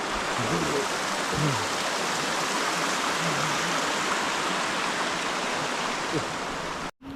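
Steady rushing of a waterfall, with faint voices underneath; it cuts off suddenly near the end.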